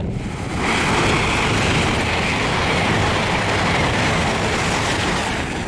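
LNER Azuma high-speed train passing the crossing at speed: a loud, even rush of wheel and air noise that comes in sharply about half a second in and holds steady, easing near the end.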